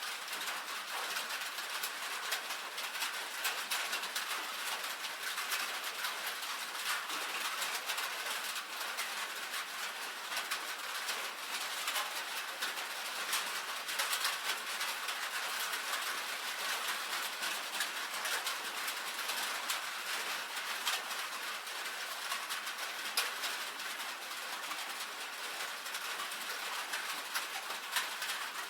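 Steady rain falling on a tin roof, a dense patter of drops tapping the metal with no break or change.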